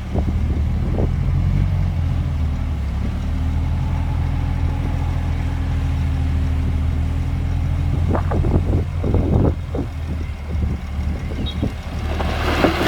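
Heavy diesel engine of an earth-moving machine running steadily. After about eight seconds a series of knocks and clanks comes in, and near the end a loud rattling rush starts.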